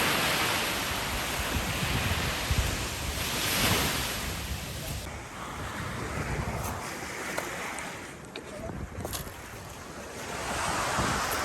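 Sea waves washing onto the shore, swelling near the start, about three and a half seconds in and again near the end, with wind rumbling on the microphone.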